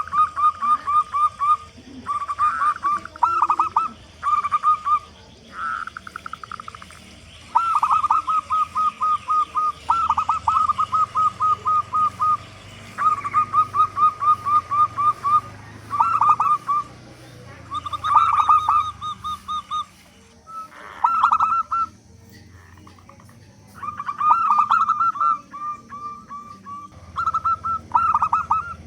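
Zebra dove (perkutut) cooing: phrases of rapid, evenly repeated staccato notes, each lasting a second or two, with short pauses between phrases.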